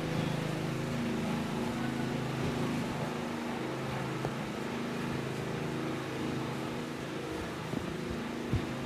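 An engine running steadily: a low droning hum that holds its pitch, with a couple of light knocks near the end.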